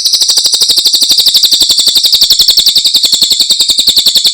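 Cililin songbird singing a fast, even trill of sharp high notes, roughly a dozen a second, loud and unbroken.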